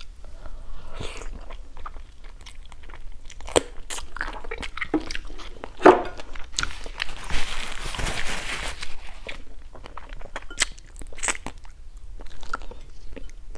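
Close-miked chewing and crunching of stir-fried frog legs, with sharp clicks from biting and mouth sounds throughout, and a longer hissing stretch about seven to nine seconds in.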